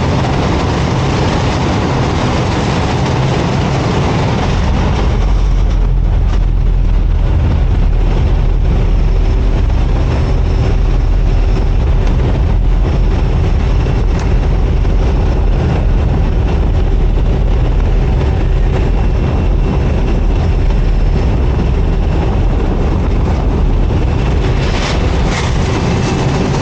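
Loud, steady rush of wind over the drone of a skydiving jump plane's engine in flight. About five seconds in, the hiss eases and a deeper rumble takes over.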